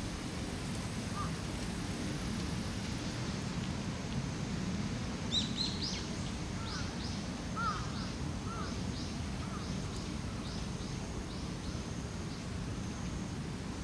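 A small bird calling: a quick run of short, high, falling chirps with a few lower notes, starting about five seconds in and stopping a few seconds later, over a steady low rumble of outdoor background noise.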